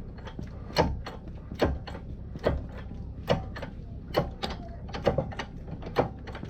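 Hammer blows on metal in a steady beat, a little faster than one a second, with lighter clicks between them, typical of driving out or seating a wheel bearing on an ATV hub.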